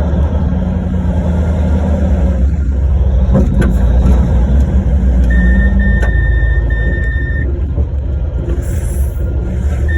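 Large mining haul truck running with a heavy, steady low rumble. A steady high-pitched tone comes in a little after five seconds and holds for about two seconds.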